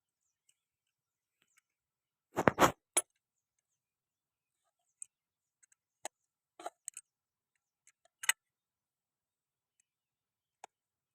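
A few separate knocks and clicks with silence between them, the loudest a quick cluster of thuds about two and a half seconds in.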